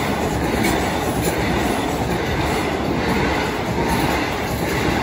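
Two coupled Southeastern Class 375 Electrostar electric multiple units passing close by over a level crossing. Their wheels on the rails make a loud, steady rumble throughout.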